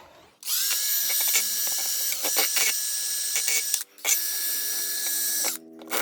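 Small handheld power tool running in two bursts with a brief stop between, with a scraping rattle, used to clean up the mower engine's drive shaft.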